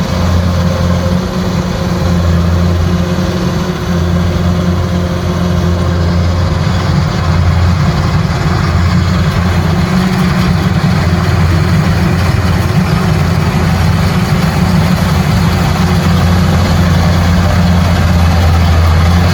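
Kubota rice combine harvester's diesel engine running steadily with a deep, even drone under the clatter of the machine.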